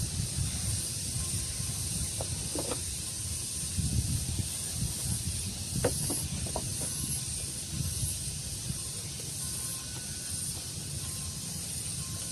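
Outdoor ambience: a breeze rumbling on the microphone under a steady high-pitched hiss, with a few faint short bird calls.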